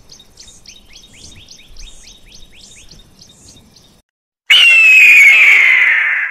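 Cheetah chirping: quiet, high, bird-like chirps, about three a second. Then, after a short gap, a loud, hoarse scream of a bird of prey that slides slowly down in pitch for nearly two seconds.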